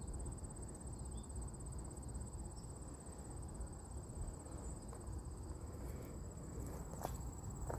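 Crickets trilling steadily, a high continuous pulsing trill, over a low outdoor rumble, with a couple of footstep clicks near the end.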